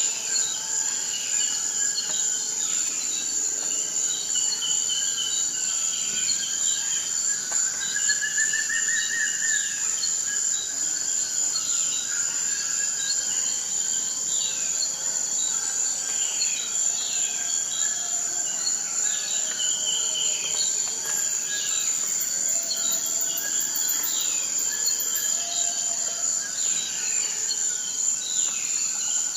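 Forest ambience: a continuous high-pitched insect trill, with many short, downward-sliding chirping calls repeating over it and an occasional rising call.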